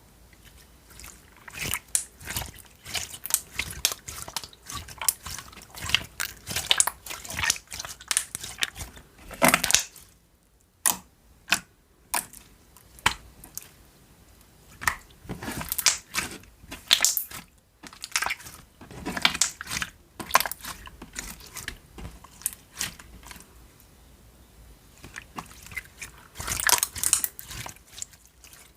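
Watery jiggly slime, a clear-glue base thinned with a lot of water, squished and pressed by hand: rapid wet squelching crackles and pops in bursts, with a few short pauses.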